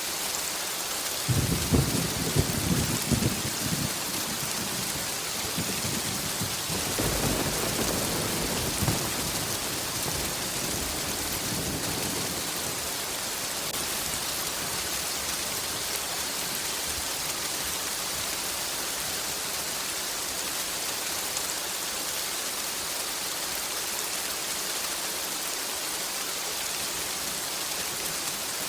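Steady heavy rain, with rolls of thunder rumbling about 1.5 s in and again, more weakly, around 7 to 9 s.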